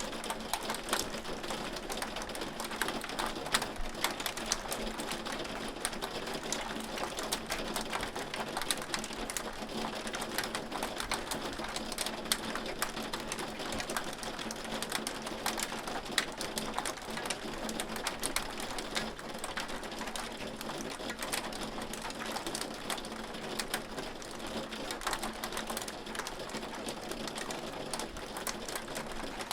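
Hailstones striking a hard surface in a continuous, dense stream of sharp ticks and clicks.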